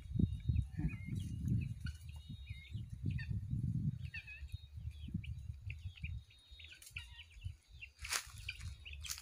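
Small birds chirping and calling over and over, over a low rumble that is strongest in the first half, with one brief sharp noise near the end.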